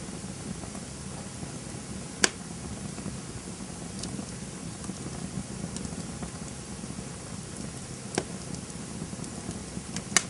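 Campfire burning: a steady low rush of flames with scattered small crackles and three sharp pops of burning wood, about two, eight and ten seconds in.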